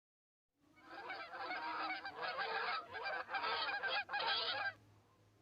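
Geese honking, many calls overlapping in a continuous chorus that starts about a second in, breaks off briefly a few times, and stops shortly before the end.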